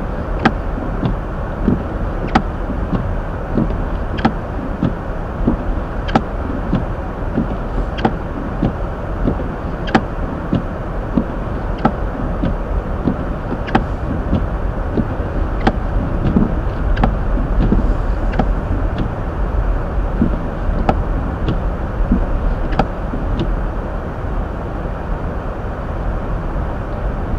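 Steady road and engine rumble of a Hyundai Elantra driving on snowy roads, heard inside the cabin, with a sharp click about every two seconds.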